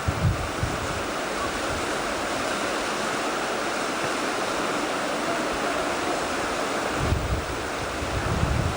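Steady rush of river water, with wind buffeting the microphone in low gusts at the start and again from about seven seconds in.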